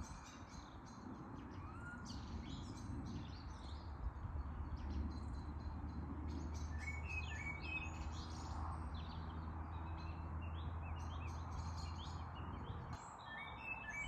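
Many small birds chirping and twittering, with short calls overlapping. A low steady hum runs underneath from a few seconds in and stops near the end.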